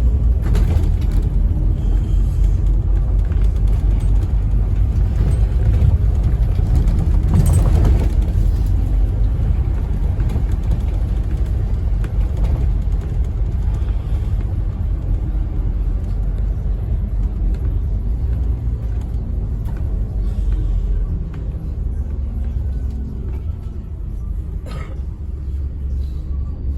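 Scania N270UD OmniCity bus on the move, heard from inside: steady low rumble of its diesel engine with road noise. There is a brief louder noise about seven and a half seconds in, and the sound eases a little after about twenty seconds.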